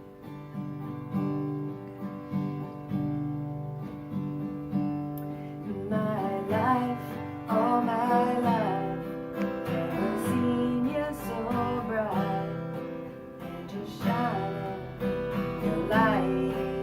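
Acoustic guitar strummed in the instrumental opening of a song, with a wavering melody line joining above the chords about six seconds in.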